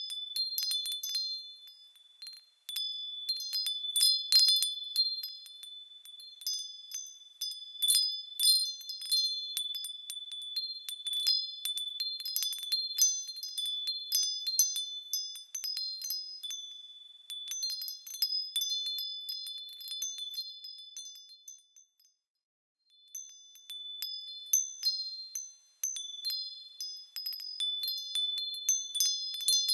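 Small, high-pitched metal bells swinging and knocking together, ringing in overlapping clusters of tinkling strikes, with brief pauses where the ringing dies away, one about three-quarters of the way through.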